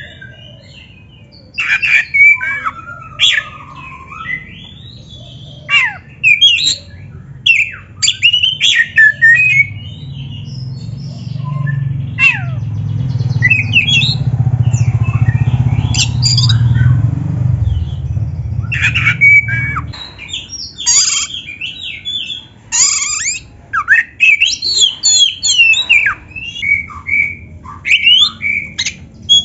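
Oriental magpie-robin singing loudly in quick, varied phrases of sharp rising and falling whistles and harsh squawking notes, in bursts with short pauses. A low rumble swells for several seconds in the middle.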